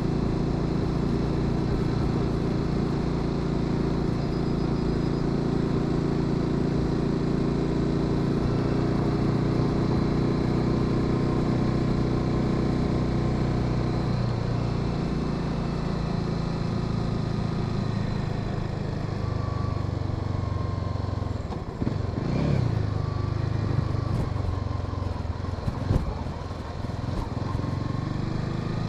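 Honda Sahara 300 single-cylinder motorcycle engine running while riding. The pitch holds steady at first, shifts about halfway through, and then dips and wavers as the engine speed changes, with a few short knocks near the end.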